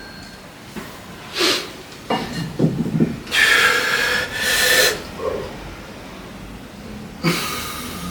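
A person breathing hard in forceful, noisy exhalations while weight training: a short breath, then two long ones in the middle and another near the end, with a few low knocks in between.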